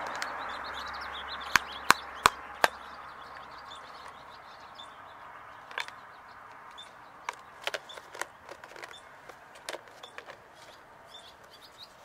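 Small birds chirping in the background, while a rushing noise fades away over the first few seconds. Several sharp clicks, four loud ones in the first three seconds and fainter ones later.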